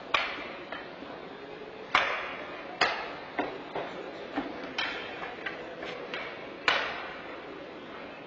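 Ice hockey play in an echoing rink: irregular sharp clacks of sticks striking the puck and of the puck hitting the boards, each ringing out briefly. The louder hits come roughly every one to two seconds, with fainter taps between them.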